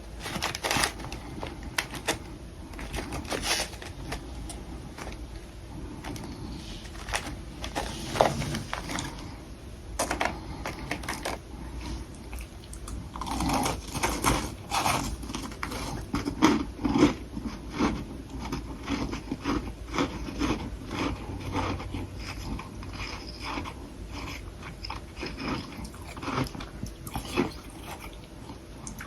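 A person biting and chewing soft humidifier frost sticks: irregular crisp crunches of packed freezer frost breaking between the teeth, with quieter chewing between bites.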